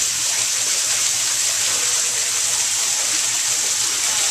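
Steady rush of running water, like a waterfall or fast stream, with a hiss that stays even throughout.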